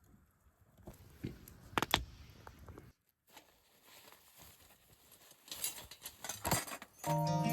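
Irregular clicks, clinks and rustling of small hard objects being handled, with a cut to silence about three seconds in. Plucked-string music begins near the end.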